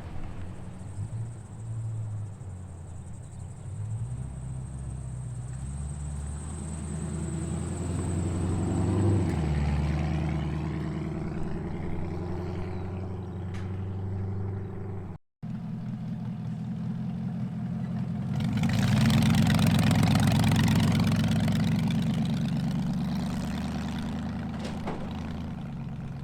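Muscle car exhaust rumbling at low speed as cars idle and drive out. A louder car passes about two-thirds of the way through, after a momentary cut in the sound.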